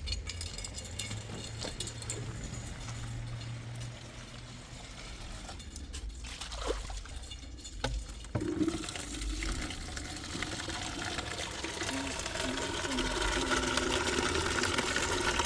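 Water running into a container, growing louder and rising in pitch as it fills, after a few knocks from handling in the first half.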